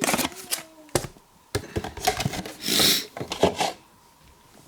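Cardboard trading-card box and packaging being handled and opened by hand: irregular clicks, taps and rustles, with a longer, hissy rustle of packaging just before three seconds in, then quieter near the end.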